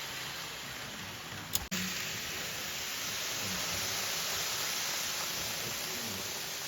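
Steady hiss of noise with no speech, broken by a single sharp click about a second and a half in.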